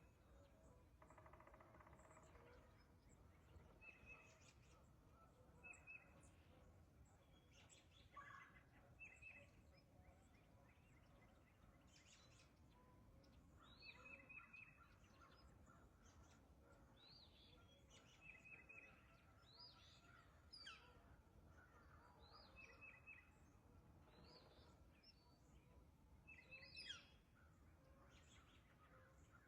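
Faint birdsong from several birds. One repeats a short call every couple of seconds, while others give quick rising and falling chirps, over a low steady background hum.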